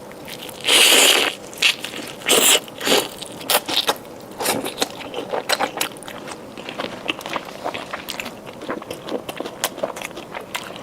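Biting into and chewing a crispy fried chicken leg with its coat of batter: a few loud crunching bites in the first three seconds, then a long run of small crackly chewing clicks.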